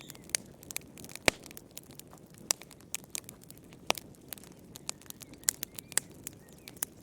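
Wood fire crackling in a fireplace: irregular sharp pops and snaps over a soft low hiss of flames, with one louder pop about a second in.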